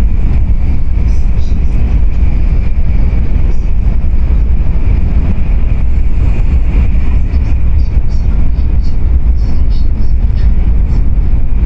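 Tokaido Shinkansen train running, heard from inside the passenger car: a loud, steady low rumble with a faint high whine held at one pitch.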